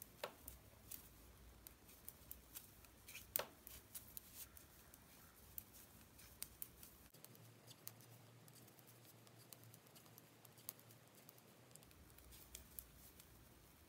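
Faint, irregular clicks of two knitting needles touching as stitches are worked, over near-silent room tone.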